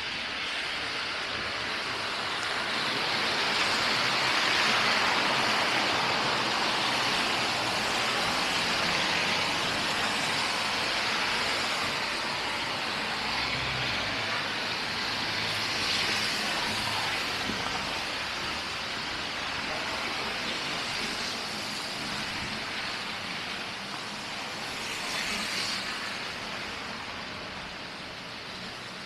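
Road traffic: a steady hiss of tyres and engines that swells as vehicles pass, loudest about five seconds in.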